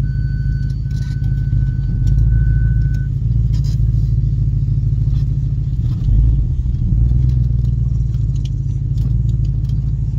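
Audi RS4's V8 engine and exhaust heard from inside the cabin while driving, a deep steady drone that swells about six seconds in. A thin steady high tone sounds over it for the first three seconds.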